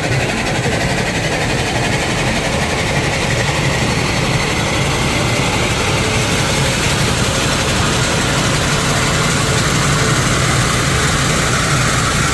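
CNC metal spinning machine running steadily as it forms a metal workpiece, with a band of sound that slowly rises in pitch.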